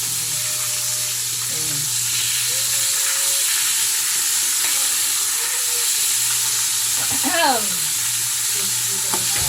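Chicken frying in hot oil with a steady sizzle.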